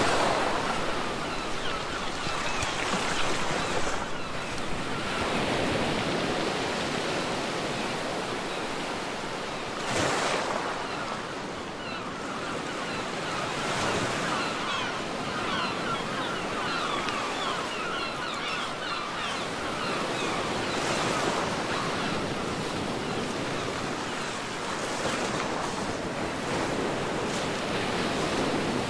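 Sea waves washing onto a beach, a continuous rush of surf that swells as waves break, with a brief surge about ten seconds in.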